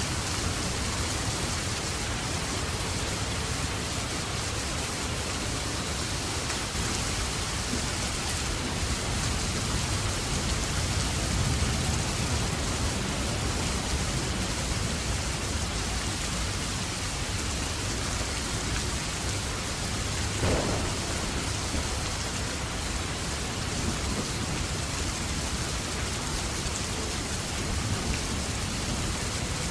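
Steady rain falling, with a low rumble underneath that swells slightly about a third of the way in, and one short sound about two-thirds of the way through.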